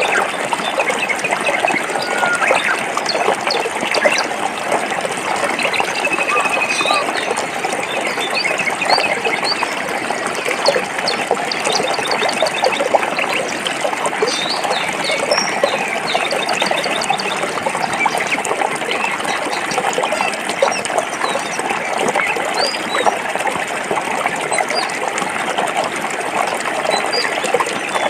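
Forest stream water flowing over rocks, a steady splashing babble, with birds chirping on and off above it.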